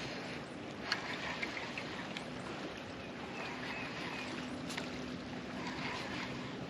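Small fishing boat on a lake: water and wind noise with a faint low hum that comes and goes, and a couple of sharp clicks about one second in and again later.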